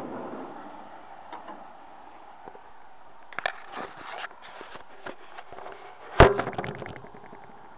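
A Ford 9N tractor's engine stops cranking at the start, leaving scattered light knocks and clicks and one sharp, loud clank with a short ring about six seconds in.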